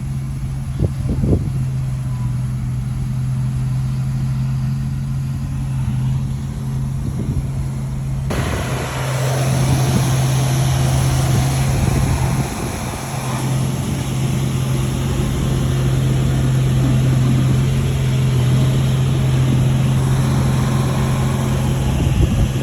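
Bulldozer diesel engine running steadily at a low, even pitch, growing louder and noisier from about eight seconds in.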